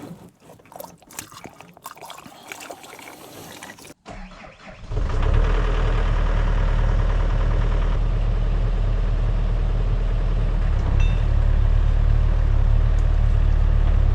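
Light clicks and knocks, then about five seconds in the Yanmar SV100 excavator's diesel engine comes in abruptly and runs loud and steady.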